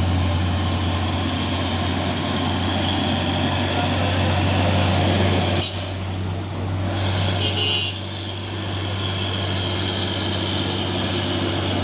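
Heavy truck's diesel engine running close by, a steady low hum under broad mechanical noise. A short sharp sound comes about six seconds in, and the level dips for a couple of seconds after it.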